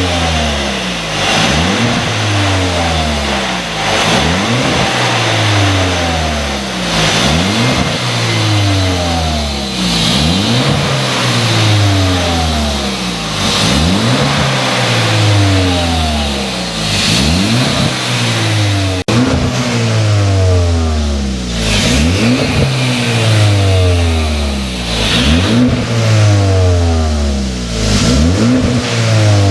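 Hyundai Avante Sport's turbocharged four-cylinder engine revved repeatedly through a tuned dual exhaust, the pitch rising and falling back about every three seconds.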